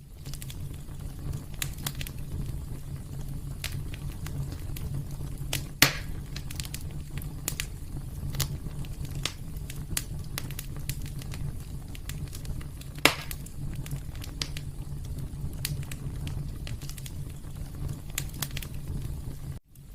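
Wood fire burning in a fireplace: a steady low rumble of flame with frequent small crackles and two louder pops, about six and thirteen seconds in.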